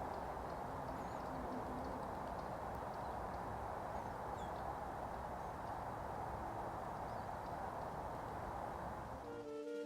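Outdoor ambience: a steady rushing noise with faint high chirps of small birds over it. It cuts off abruptly near the end, and music comes in.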